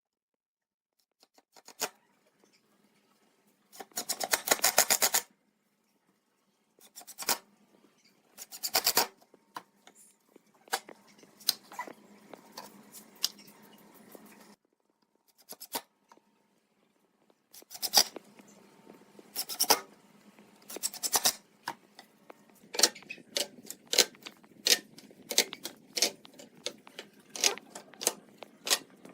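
Hand work on wood and hardware: scattered sharp clicks, taps and scraping, with a fast rattling run of clicks about four seconds in and a busier stretch of quick taps near the end.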